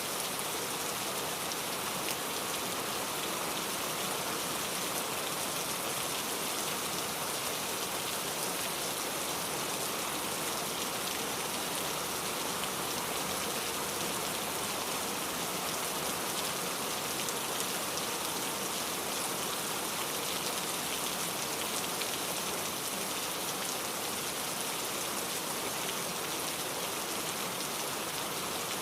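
Steady rainfall, drops pattering on a surface in an even hiss without letting up.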